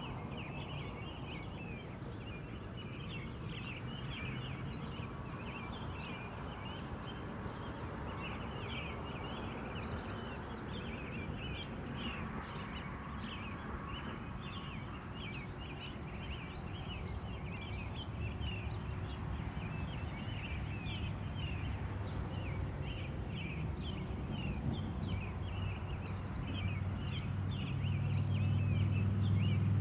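Dawn chorus of wild birds: many short chirps repeating throughout, over a steady high-pitched trill. A low rumble builds up and grows louder near the end.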